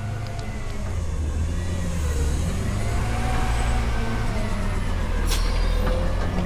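Front-load garbage truck's engine running steadily with a faint wavering whine over it, and a sharp clank about five seconds in.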